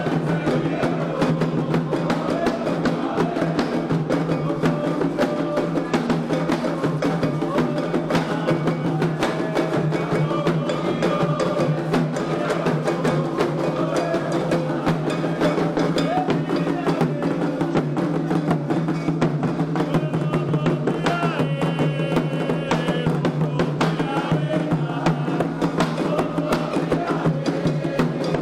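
Candomblé ritual music: atabaque hand drums play a dense, steady rhythm and voices sing along throughout.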